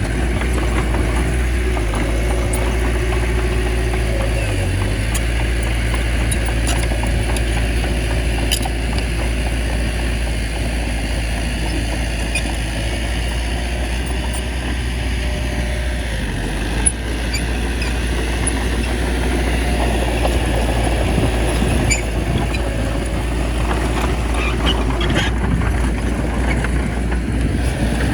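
Bulldozer's diesel engine running steadily, with occasional faint metallic clicks.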